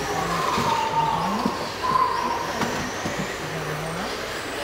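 Radio-controlled model trucks running on a dirt track, their motors whining with a pitch that rises and falls, over a steady din.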